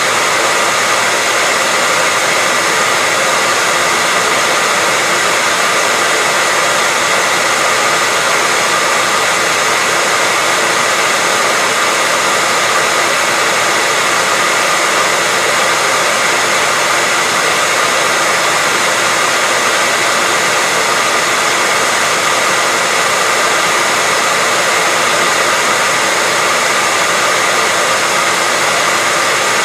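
Hair dryer running steadily: a constant airy blowing hiss with a faint steady whine in it, used as white noise.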